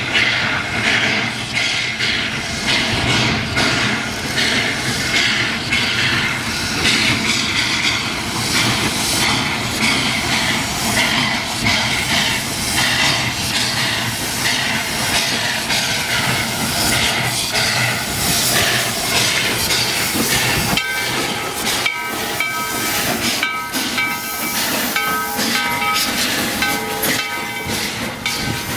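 Steam locomotive working through a rail yard: a steady hiss of steam with the clatter and knocks of the engine and its cars on the track. About two-thirds of the way in, a ringing tone starts and repeats roughly once a second.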